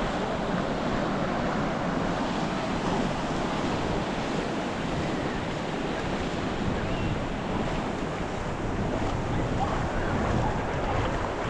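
Ocean surf washing onto the beach in a steady rush, with wind blowing across the microphone.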